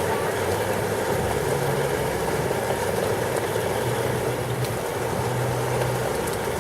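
Heavy thunderstorm rain falling in a steady rush, with faint scattered drop ticks and a low hum that fades in and out.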